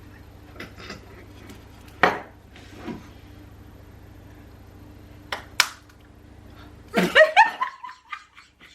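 Knife knocking and prying at a young coconut: scattered sharp taps, the loudest about two seconds in and a pair a little past halfway, then a louder burst of squealing, scraping sounds near the end.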